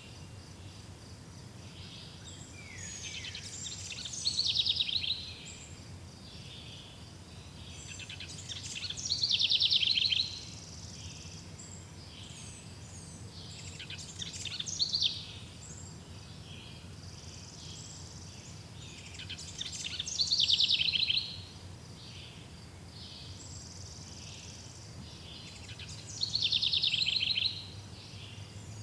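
A songbird repeats the same short song phrase five times, about every five to six seconds. Each phrase ends in a fast trill. Under it runs a steady faint background hiss and a low hum.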